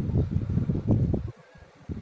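Strong wind buffeting the microphone in uneven low gusts, dropping away briefly near the end.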